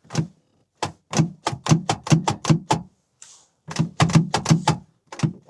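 Car door's inside handle and latch mechanism being worked rapidly, a run of sharp plastic-and-metal clacks about six a second, a pause, then more clacks. This is a test of a handle whose release cable is stretched and does not reliably pull the latch open.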